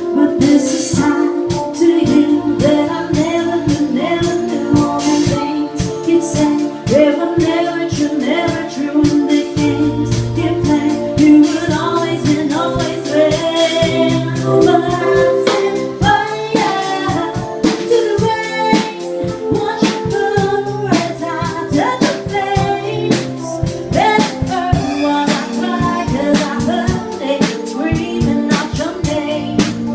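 Pop song with a woman singing over an instrumental backing with drums, a steady beat throughout.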